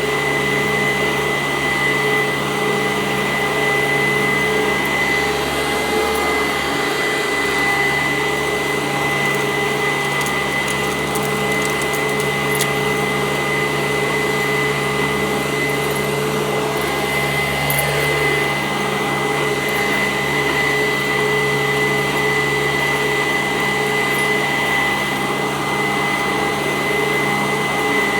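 Sanitaire SC886 commercial upright vacuum cleaner running steadily on carpet: a constant motor hum with a steady high whine.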